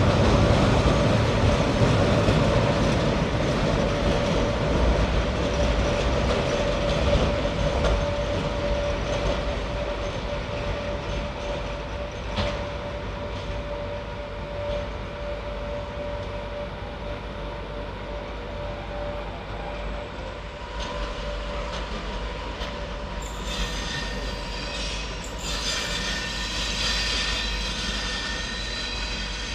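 A train running past and drawing away, its rumble fading over about twenty seconds. Near the end come high-pitched squeals, typical of steel wheels squealing on the rails.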